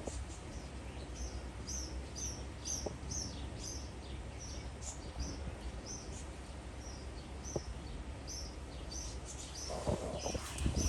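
A songbird calling in a steady series of short, high chirps, about two or three a second, over a low rumble of wind and outdoor noise.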